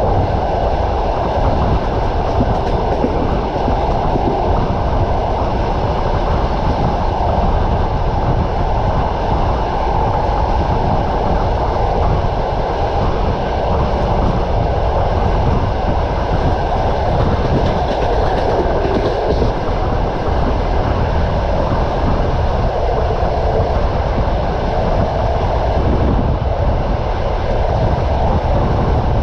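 Train wheels knocking on the rails under a steady rumble of the moving train.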